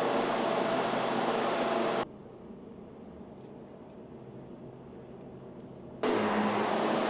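Steady machinery noise of a truck assembly plant, a dense hum with several held tones. About two seconds in it drops suddenly to a much quieter hum with faint ticks, then jumps back to full level about four seconds later.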